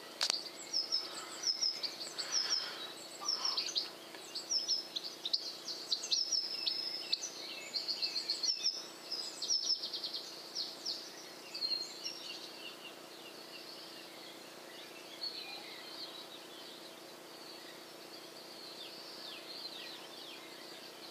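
Small songbirds chirping and singing in a quick run of short, high, falling notes, thick for the first dozen seconds and then sparser and fainter, over a steady faint low hum.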